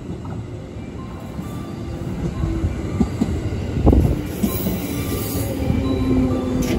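JR West 213 series two-car electric train running in alongside the platform, wheels rumbling on the rails and growing louder as it passes close by. There is a heavy thump about four seconds in and a squealing tone from the wheels near the end.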